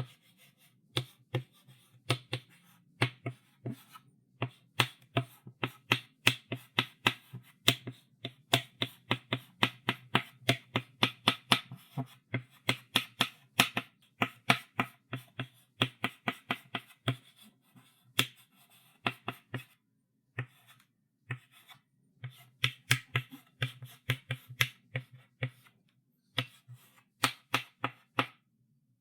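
Chalk writing on a chalkboard: quick, irregular taps and short scratches of the chalk stick against the board, several a second, with brief pauses between bursts of strokes.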